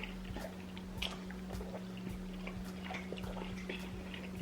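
Quiet eating and table sounds: scattered small wet clicks and taps from mouths, food and utensils, over a steady low hum.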